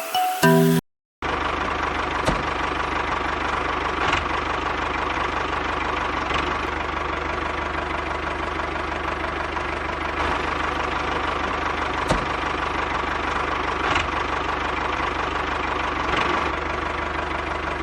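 Small motor of a DIY mini tractor running steadily at a constant speed, with a faint tick about every two seconds.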